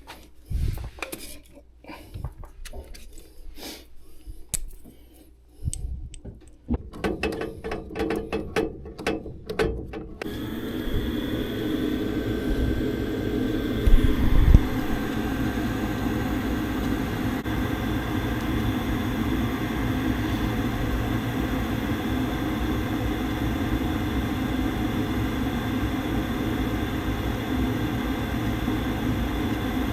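Clicks and rattles of parts being handled, then about ten seconds in a furnace starts up and runs steadily, a fan motor with a faint steady whine, with one thump a few seconds after it starts.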